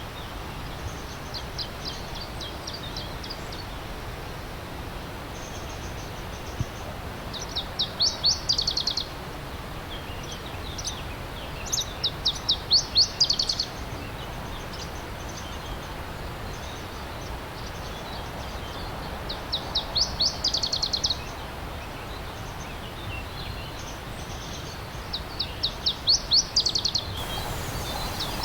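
A songbird repeating a short, fast, high trill phrase every few seconds over the steady rush of a flowing stream.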